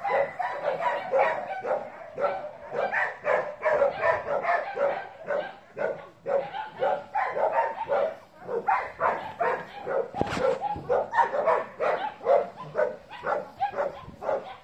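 Dog barking over and over, about three to four barks a second without a break, with one sharp knock about ten seconds in.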